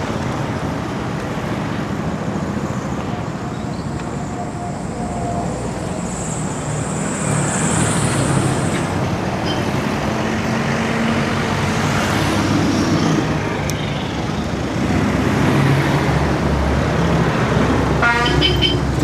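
Road traffic: motor vehicle engines running past in a steady roadway roar, with a quick burst of rapid ticking near the end.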